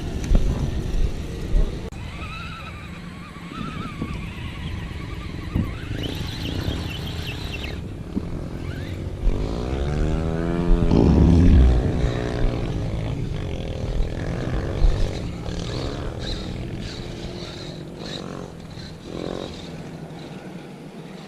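Wind buffeting the microphone over the intermittent whine of a radio-controlled crawler truck's electric motor and gears, with a drawn-out call or shout about ten seconds in.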